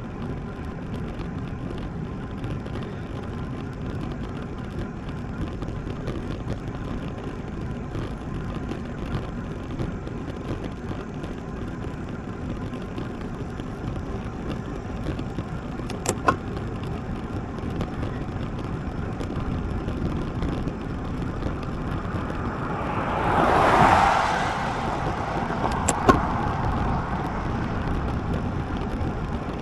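Steady wind and road-tyre rush on a road bike's riding camera, with a motor vehicle passing, swelling and fading about three-quarters of the way through. Two sharp clicks, one about halfway and one just after the pass.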